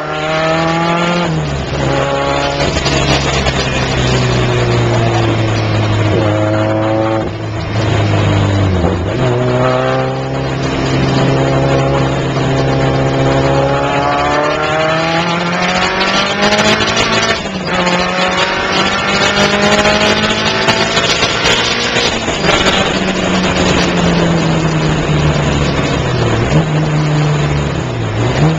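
Citroën Saxo VTS's 1.6-litre four-cylinder engine, heard from inside the car, driven hard round a circuit. The revs climb steadily and drop sharply at gearchanges or lifts, several times.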